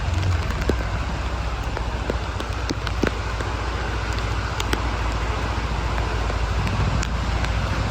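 Heavy rain falling steadily, with the low steady rumble of a vehicle engine underneath and scattered sharp clicks of drops hitting close by.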